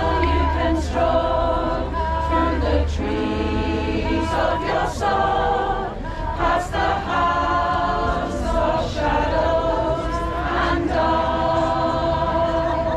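A choir singing, several voices holding notes in phrases that break every second or two.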